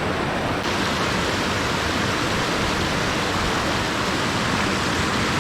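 Water rushing steadily over a creek spillway, an even, continuous noise that gets a little brighter about half a second in.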